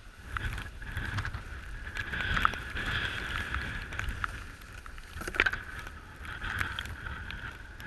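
Rustling with a few sharp knocks, from goose decoys and their stakes being handled and packed, over low wind rumble on the microphone.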